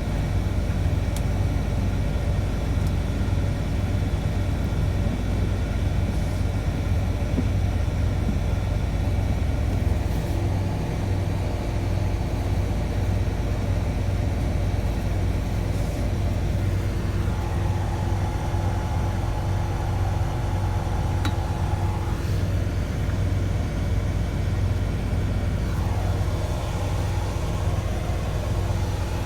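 Scania city bus running on the road, heard from inside: a steady low engine rumble with no breaks. A steady high tone joins it for about four seconds past the middle.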